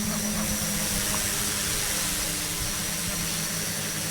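UAV's motors and propellers humming steadily in flight under autonomous control, a constant low drone with an even hiss over it.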